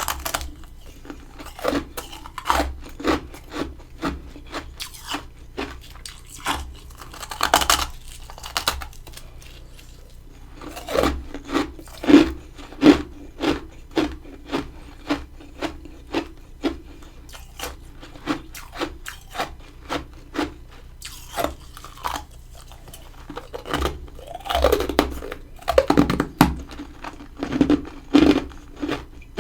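Close-up crunching and chewing of mini-freezer frost and ice. Short crisp crunches come in a steady rhythm, about one or two a second, with louder bursts of bites now and then.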